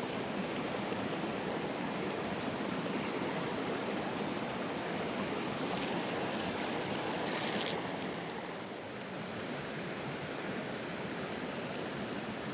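A shallow stream running steadily over rocks, an even rushing. Two short, higher hissing sounds come about six and seven and a half seconds in.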